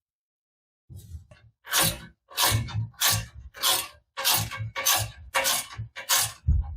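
A hand tool worked back and forth against metal: rasping strokes, about two a second, that start about a second in and keep an even rhythm.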